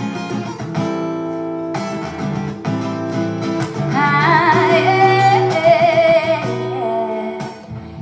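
Live acoustic guitar accompanying a singer, who holds wordless notes with vibrato about halfway through.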